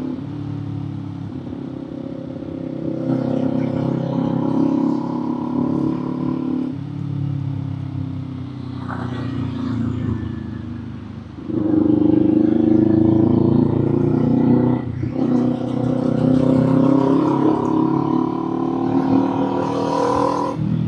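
Kawasaki Z400 parallel-twin motorcycle engine pulling through the gears on the move. The pitch climbs in each gear and drops at the changes, about a third of the way in, just past halfway and about three quarters through. It is louder after the second change.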